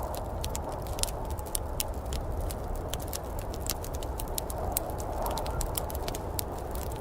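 Wood fire crackling, with frequent irregular sharp pops over a steady low rushing noise.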